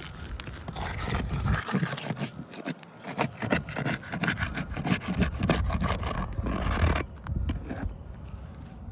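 Scraping and rubbing with many small sharp knocks: roof shingles and ridge caps being handled and worked loose, busiest for about six seconds before it eases off.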